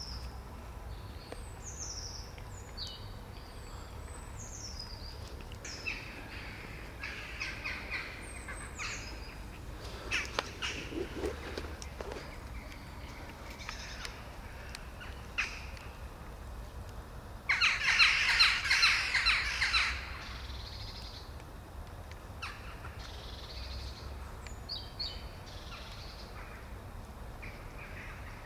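Birds calling outdoors: short high calls that fall in pitch, repeated through the first several seconds. About two-thirds of the way in comes a loud, harsh, rasping burst lasting about two seconds.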